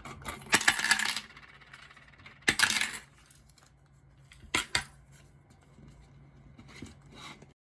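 Small hard objects clinking and clattering in four short bursts of sharp clicks, the loudest near the start and about two and a half seconds in.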